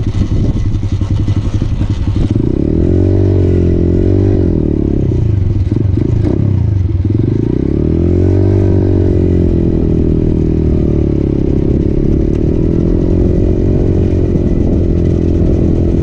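Motorcycle engine running under way, its pitch rising and falling as the throttle opens and closes. It drops low about six to seven seconds in, climbs again, then holds steady.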